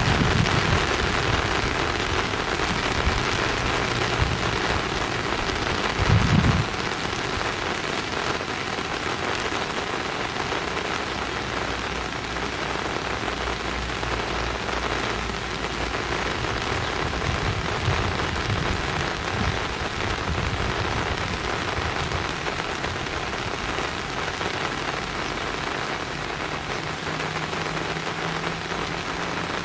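Steady rain falling, an even hiss with a brief low thump about six seconds in.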